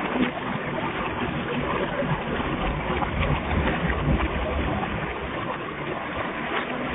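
Water running steadily through a 2009 Vortens Vienna toilet, a continuous rushing with a low rumble.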